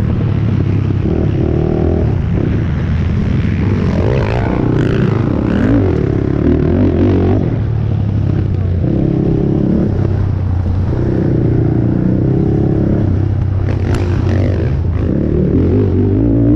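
Honda TRX450R race quad's single-cylinder four-stroke engine running under hard riding, its pitch rising and dropping repeatedly as the throttle is worked and gears change. A few brief clattering knocks come about four to six seconds in and again near fourteen seconds.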